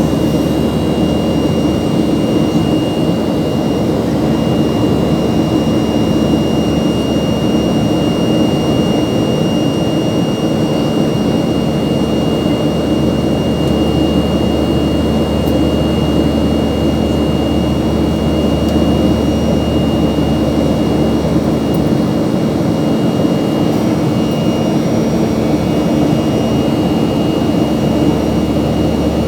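Steady engine drone from inside a moving vehicle, a constant low hum with a thin high whine over it and no change in pitch.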